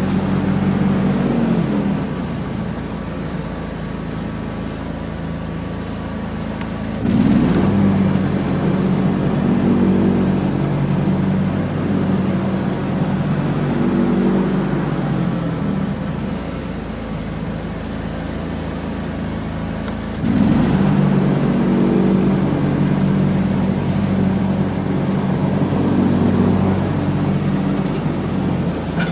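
John Deere X304 lawn tractor's engine running steadily under mowing load. It gets louder about seven seconds in and again about twenty seconds in, and its note swells and eases every few seconds.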